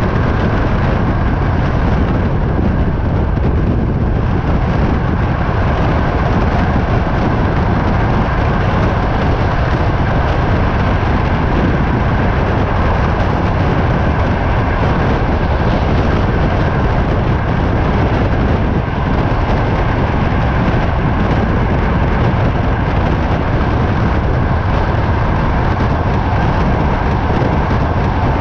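Moving passenger train at speed, heard at the carriage window: a steady hum of the train with wind noise over it, which largely covers the clatter of the wheels on the rail joints.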